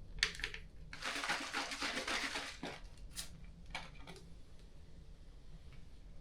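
Scraping of a magnesium fire starter while lighting a fire: a short scrape, then a longer, louder scrape, then a few light clicks.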